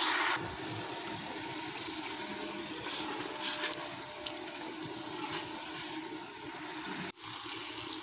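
Onions and tomato paste frying in hot oil in a metal pot: a steady sizzle, with a plastic slotted spatula stirring and scraping through it now and then.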